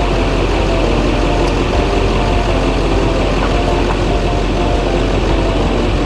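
Chevy K3500 pickup's Duramax V8 turbo-diesel idling steadily.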